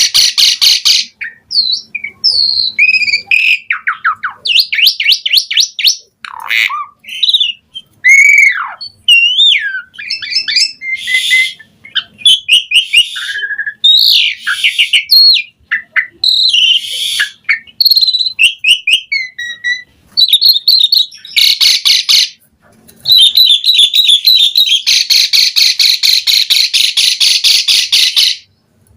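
Asian pied starling (jalak suren) in full song: a varied string of whistles, slurred rising and falling notes and fast trills. From about two-thirds of the way in, it gives a long run of rapid repeated notes that turns buzzy near the end.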